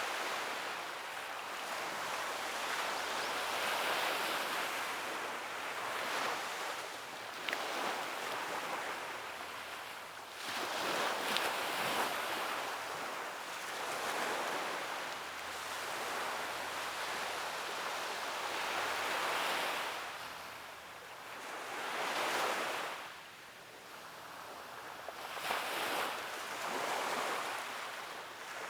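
Sea waves breaking and washing on a beach, the surf swelling and ebbing every few seconds, with a few brief sharp splashes.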